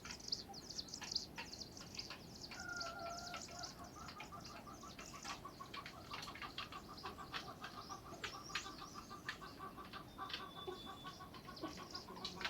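Small birds chirping and twittering, many short high chirps overlapping. From about four seconds in, one call repeats rapidly and steadily.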